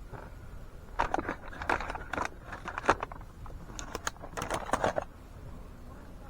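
A flurry of light clicks and clatter, like small hard objects being handled, lasting about four seconds before it stops.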